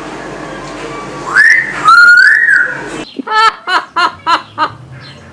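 Pet parrot whistling: a rising whistle, then a longer one that rises and falls, followed by a quick run of about six short chirps.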